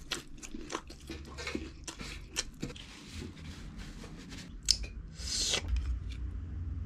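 Close-miked eating sounds: chewing with wet lip smacks and many sharp little clicks, then a short rustle about five seconds in.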